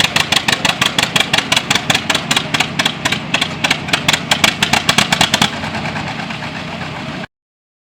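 John Deere two-cylinder tractor engine running with an even popping exhaust beat, about seven pops a second. About five and a half seconds in, the beat fades into a smoother, quieter run, and the sound cuts off suddenly near the end.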